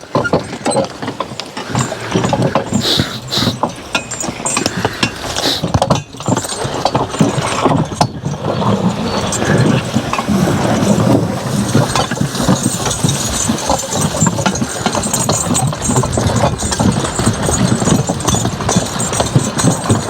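A team of draft horses at work, hooves clopping over the field while a loaded sled drags and scrapes along the ground.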